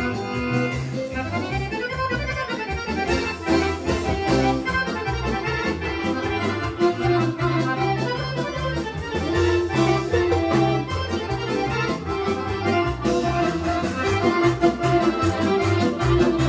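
Instrumental Serbian kolo dance medley played by a folk band, with a lively melody over a steady, even bass beat.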